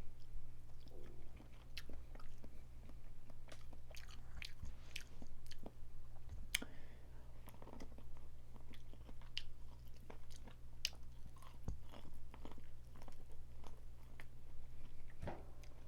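Close-miked eating of boiled crawfish: irregular sharp cracks and clicks of shell and claws being broken, with chewing in between.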